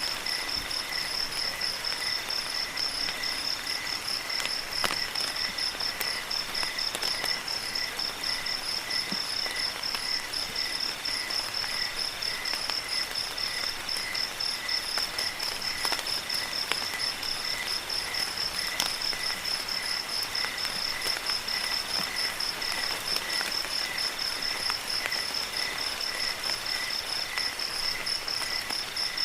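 Crickets chirping in fast, even pulses without pause, with a second chirping call coming and going in short trains, over a steady hiss of rain water with occasional faint drip ticks.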